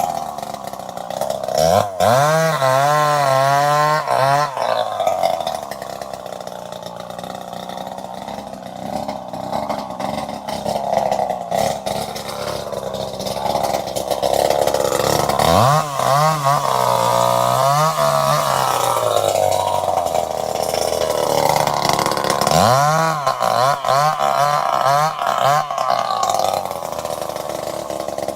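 Petrol chainsaw engine running, revving up three times for a few seconds each, its pitch wobbling up and down while revved, and dropping back to a lower, steadier run in between.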